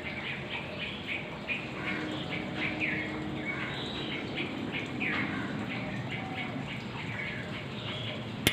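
Birds chirping: a run of short, high chirps several times a second, some of them sliding downward in pitch.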